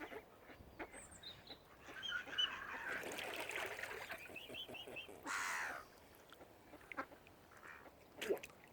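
Wild birds calling: a run of short, high chirps, then one louder call lasting about half a second, about five seconds in.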